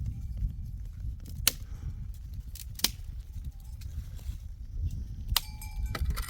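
A few sharp clicks over a low steady rumble, then livestock bells start ringing about five seconds in.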